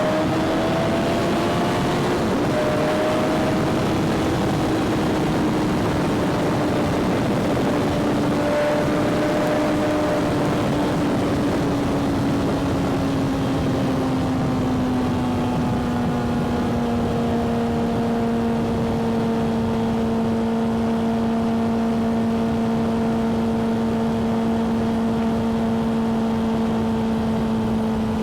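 Motorcycle engine running at a steady cruise under a rush of wind noise. The engine note eases a little lower about halfway through, then holds steady.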